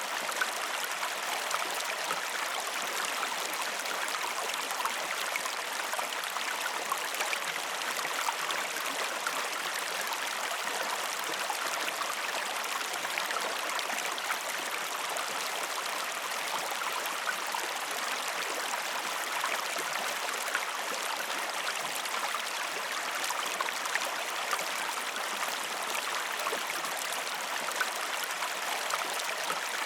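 River water running and babbling, a steady rushing with fine splashing and trickling throughout.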